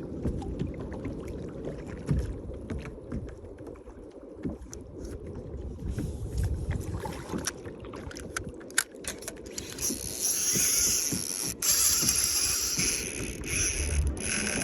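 Water and wind noise around a fishing kayak, with scattered small knocks and clicks. A louder hissing rush comes in about ten seconds in.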